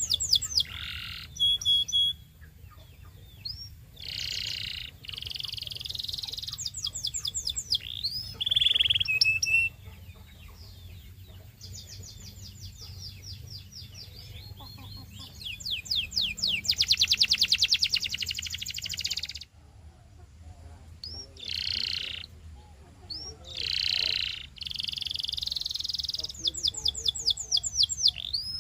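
Canary singing: phrases of very fast rolling trills and quick rising whistled notes, each lasting a second or two, broken by short pauses, with the longest and loudest trill a little past the middle.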